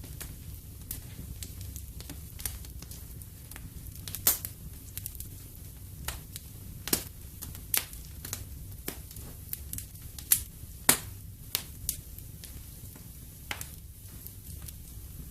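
Wood fire burning in a fireplace, crackling with sharp irregular pops over a low steady rumble of the flames.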